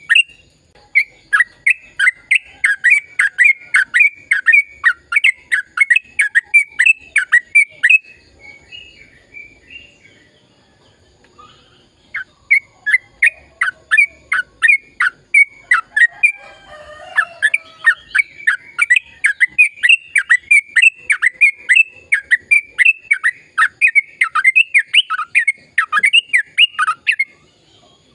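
Yellow-vented bulbul (trucukan) singing: a long run of short, falling notes, about three a second. The run breaks off for a few seconds a third of the way in, then resumes and stops shortly before the end.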